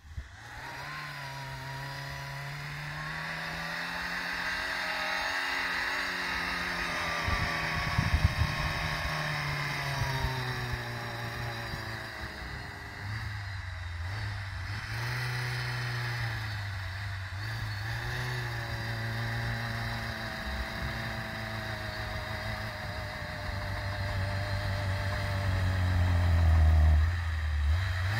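Suzuki Samurai's engine revving up and down under load as the 4x4 pushes through deep snow, with a short clatter about eight seconds in. The engine grows louder near the end.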